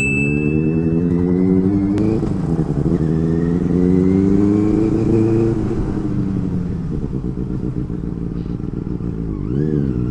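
Benelli 600i's inline-four engine accelerating while ridden: the engine pitch climbs, breaks sharply about two seconds in at a gear change, climbs again for a few seconds, then settles lower as the rider eases off, dipping briefly near the end.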